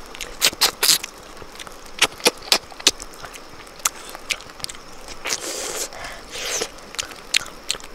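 Close-up chewing and lip smacking as a person eats cooked fish, with sharp, wet mouth clicks at irregular intervals and a couple of longer sucking sounds partway through.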